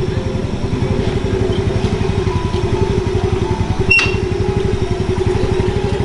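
Motorcycle engine idling steadily, with a single sharp click about four seconds in.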